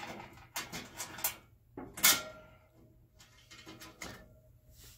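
A run of clicks and clattering knocks as parts are handled in the bottom of a GE oven, loudest about two seconds in, then a few lighter taps.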